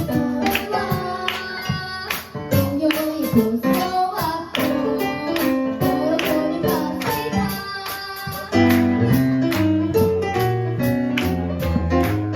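Live band music from a drum kit and keyboard, the drums' cymbal keeping a steady beat of about three hits a second; the music gets louder with heavy bass notes about eight and a half seconds in.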